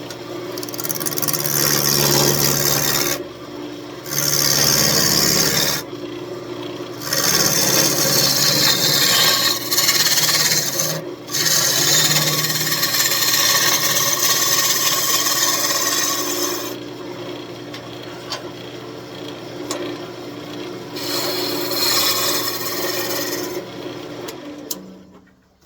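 Wood lathe running while a turning tool cuts into a spinning walnut desk leg, in several long cutting passes with short breaks between them, the lathe's hum carrying through the gaps. The sound dies away near the end.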